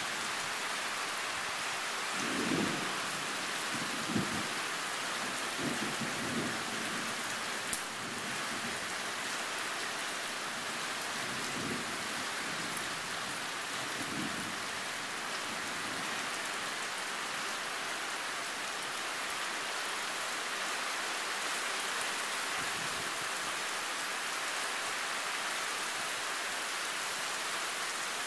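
Heavy tropical thunderstorm rain falling steadily, with a few short low rumbles of thunder under it in the first half.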